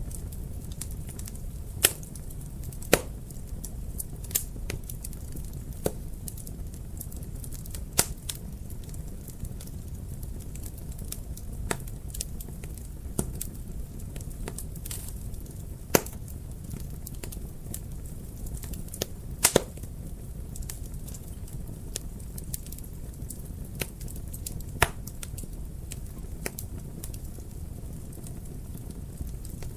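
Wood fire crackling in a fireplace: irregular sharp pops and snaps over a steady low rumble of flames, with a few louder pops, the loudest about 2, 3, 8, 16, 19.5 and 25 seconds in.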